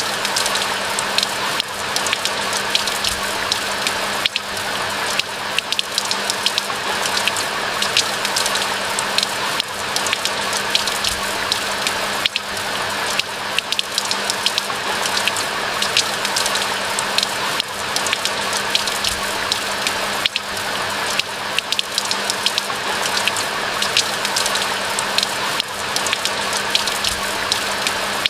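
Steady rain falling, with many separate close drops ticking over an even hiss, and a faint low hum running underneath.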